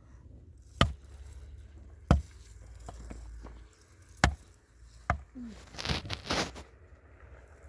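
Four sharp blows at uneven intervals, followed by a short scraping rustle.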